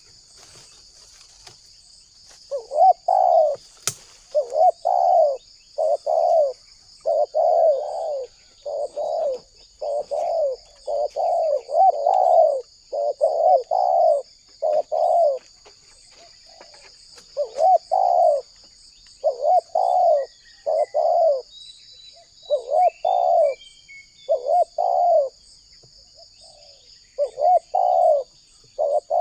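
Spotted dove (tekukur) cooing persistently, a run of repeated short coo phrases with brief pauses between them and a longer pause about halfway through.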